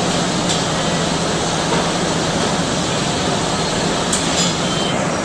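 Brazing torch flame hissing steadily while a bead is run with filler rod, with a few faint clicks.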